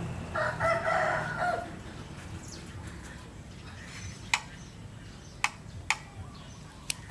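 A rooster crowing once, a little over a second long. Later come four sharp clicks close by.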